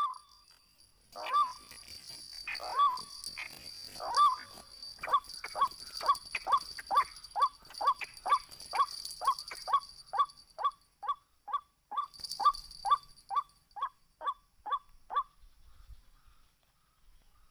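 White-breasted waterhen calling: a long series of short 'kwak' notes, spaced out at first and then quickening to about two or three a second, stopping about 15 seconds in.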